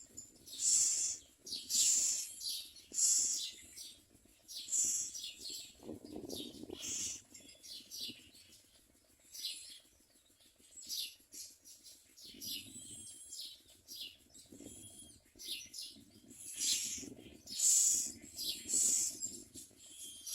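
Common myna chicks giving harsh, high-pitched calls in the nest, repeated roughly once a second, with some lower, duller sounds among them.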